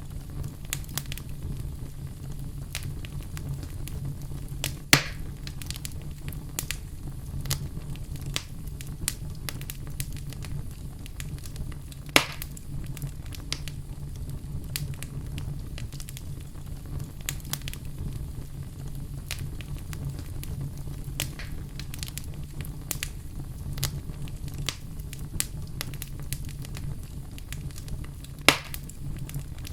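Wood fire burning in a fireplace: a steady low rumble of flame with frequent small crackles, and three loud sharp pops, about five, twelve and twenty-eight seconds in.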